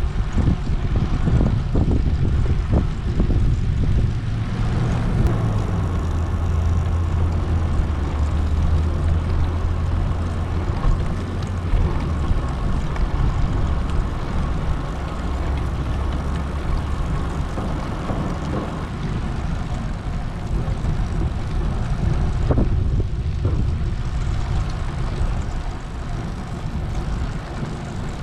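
Wind rumbling on a GoPro Hero 8's built-in microphones while riding a bicycle: a loud, steady low roar. A steady low hum joins about five seconds in and fades out several seconds later.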